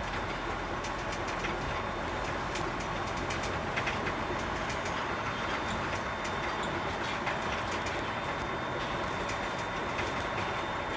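Container truck on the move, heard from inside the cab: a steady diesel engine and road rumble with frequent sharp rattles and clicks from the cab and load.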